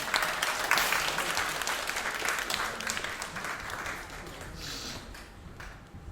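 Audience applauding. It swells at the start and dies away over the last couple of seconds.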